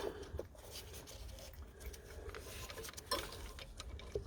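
Faint rubbing and a few light clicks of metal parts handled by hand, as an injector hold-down clamp is worked into place on a diesel engine, over a steady low background rumble.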